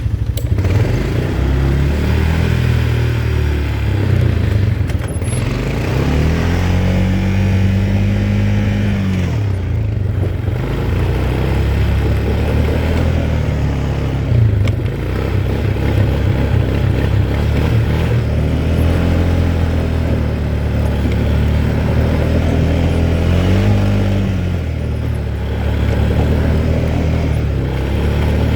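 Quad bike engine running under way, revving up and settling back twice: about six seconds in, and again briefly near the end.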